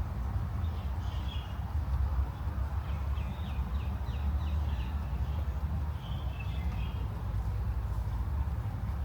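Small birds chirping: a short call about a second in, a quick run of about six chirps around the middle, and another short phrase near the end, over a steady low rumble of outdoor ambience.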